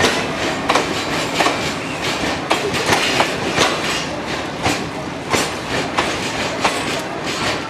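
Train passing through a railway station, its wheels clattering over the rail joints in a steady run of clicks, about two or three a second, over a continuous rumble.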